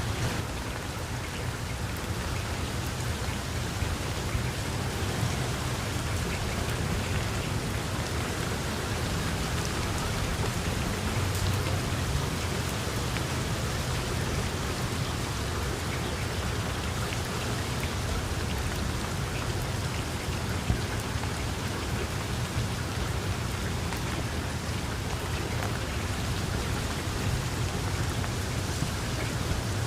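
Heavy rain falling steadily, a dense even hiss of drops with a few separate drop ticks, over a low rumble that swells slightly about a third of the way in.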